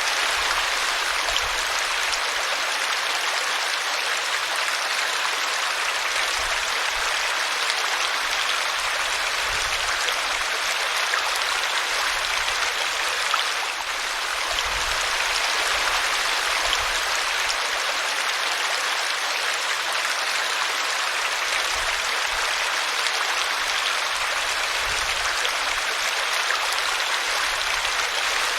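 A small brook running over a tree root: a steady rushing and splashing of water.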